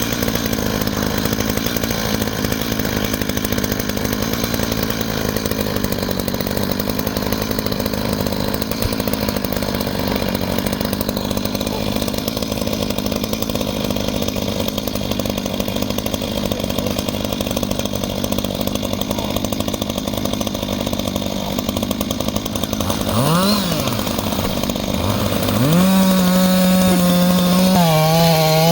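Reciprocating saw (Sawzall) running steadily as it cuts through a downed tree. A little over 20 seconds in, its motor pitch dips and climbs again, then it runs louder with a wavering pitch near the end.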